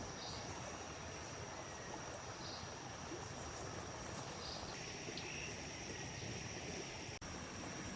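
Outdoor ambience of insects trilling: a steady high-pitched drone over an even hiss, with a few faint short chirps. The sound drops out for an instant near the end.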